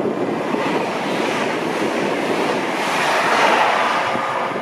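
Hull Trains Class 802 'Paragon' bi-mode train passing at speed: a rush of wheel-on-rail and air noise that builds to its loudest about three and a half seconds in as the front passes, then eases a little.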